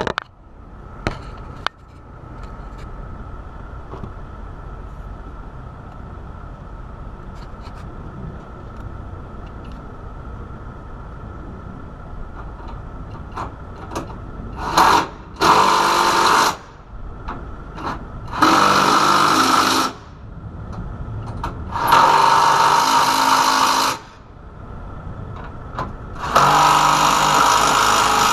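Power drill run in four bursts of about one and a half to two seconds each, whining as it drives fasteners, over a steady low hum.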